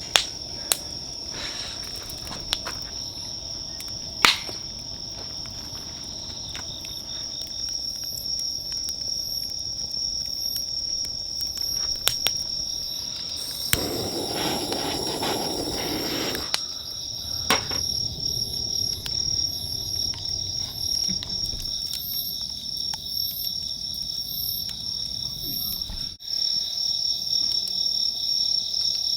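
Crickets trilling steadily and unbroken, with scattered sharp crackles from a wood campfire. A short rushing swell of noise comes about halfway through.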